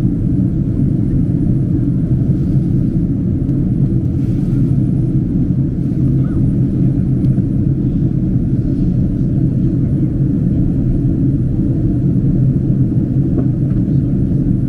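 Steady, even rumble of a Boeing 767-300 cabin in flight, the engine and airflow noise heavy and low-pitched.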